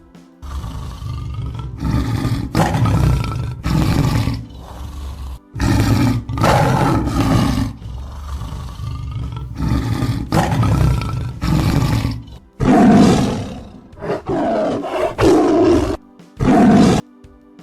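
A large animal's loud, deep calls, repeated about a dozen times in quick succession with short gaps, over faint background music.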